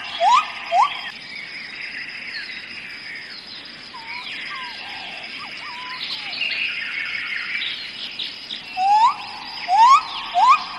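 Rainforest birds calling over a steady high insect drone. A bird gives a run of loud rising whistled notes at the start and again near the end.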